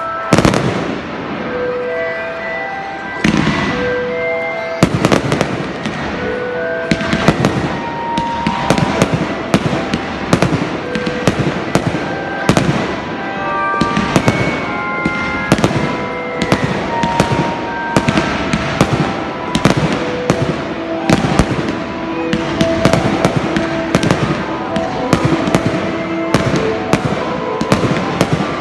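Aerial fireworks bursting in a dense, irregular run of sharp bangs and crackles, several a second, with a tune of music playing underneath.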